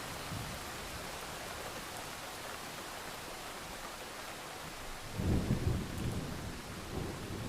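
Steady rain hiss, with a low rumble of thunder breaking in about five seconds in and swelling twice before easing.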